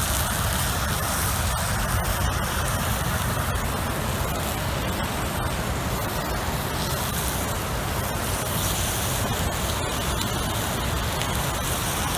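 Steady rushing of a flowing river, an even noise with a low rumble and faint scattered ticks.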